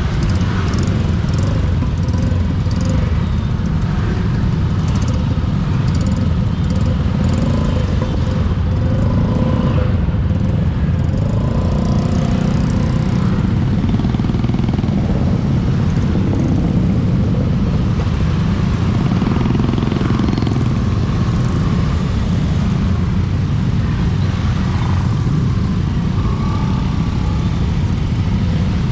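Motorcycle riding in traffic heard through a GoPro's built-in microphone: steady wind rumble on the mic, with the motorcycle's engine and other vehicles passing.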